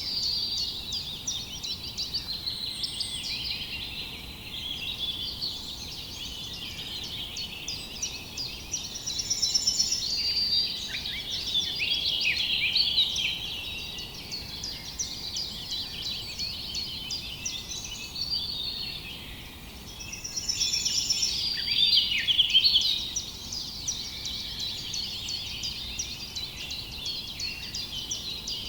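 Many small songbirds chirping and singing at once in a dense, continuous chorus over a steady background hiss, swelling louder twice, about ten seconds in and again about two-thirds of the way through.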